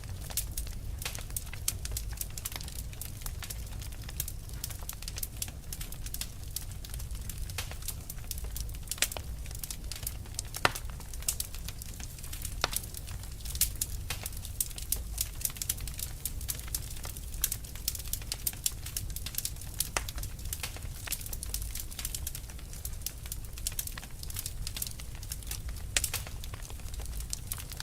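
Fire crackling: a dense, irregular run of sharp pops and snaps, some louder than others, over a low steady rumble.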